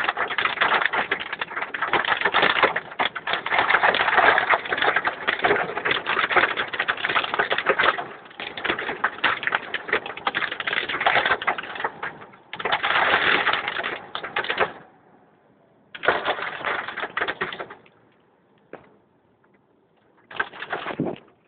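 Hail and heavy rain pelting hard surfaces in a dense, rapid clatter. It cuts off sharply about fifteen seconds in, then returns twice in short bursts.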